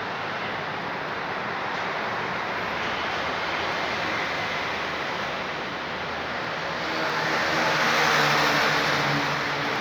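Steady road traffic noise, with a motor vehicle passing close. Its engine hum swells about seven seconds in and then fades.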